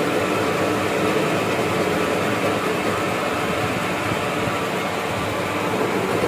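Lathe running steadily while turning a table fan shaft down to take a 6202 bearing.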